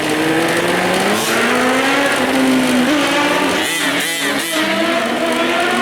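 Small two-stroke engines of 1/5-scale gas RC trucks running on and off the throttle, the engine pitch climbing over the first few seconds and then falling back, with a rough rasping stretch about four seconds in.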